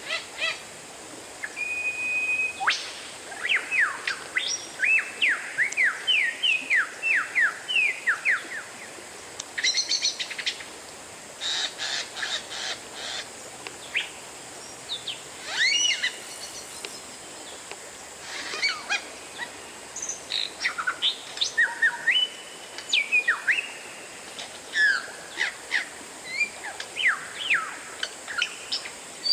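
Oriental magpie-robin (kacer) singing: a varied run of whistled notes, many sliding down in pitch, broken now and then by bursts of harsh, rapid chattering notes.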